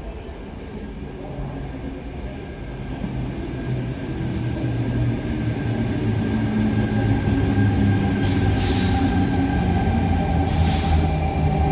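Sydney Trains electric suburban train pulling into the platform, its rumble and steady motor whine growing louder. Two short hisses come near the end, about two seconds apart.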